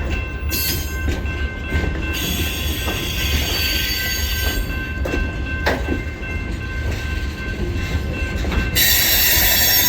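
DeQueen and Eastern freight train moving slowly on the rails: a steady low rumble with wheel squeal in two stretches, the louder one starting near the end.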